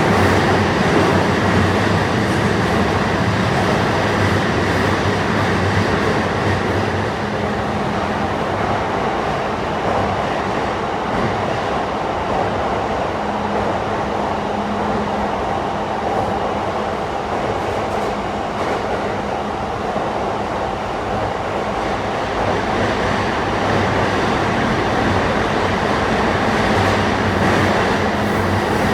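E235-1000 series electric train running at steady speed through a tunnel: a continuous rumble of wheels on rail with a steady hum.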